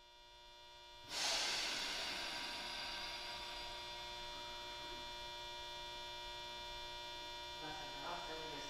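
Steady multi-tone electrical hum inside a Tokyu 8500 series subway car standing at the platform. About a second in, a hissing rush of noise comes in and slowly settles. Faint voices come in near the end.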